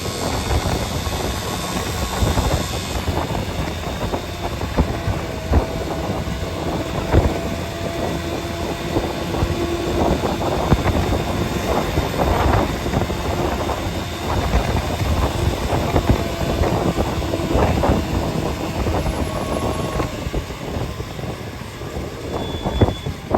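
A vehicle travelling along a road: steady engine and road noise with frequent short knocks and rattles.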